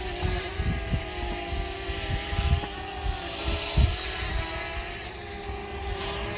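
DJI Mavic Mini quadcopter's propellers whining steadily, the pitch wavering slightly as the motors fight the wind, with wind gusts buffeting the microphone.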